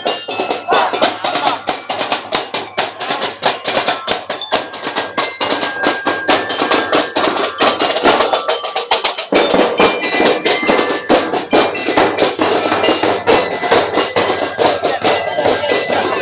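Street-dance percussion band playing a fast, dense, driving drum rhythm, with short ringing pitched notes above the beat.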